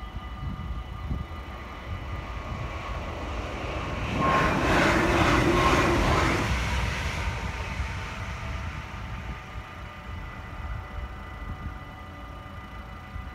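Stadler FLIRT electric train passing over an automatic level crossing. Its rushing noise swells about four seconds in, is loudest for about three seconds, then fades. The crossing's warning bells ring steadily throughout.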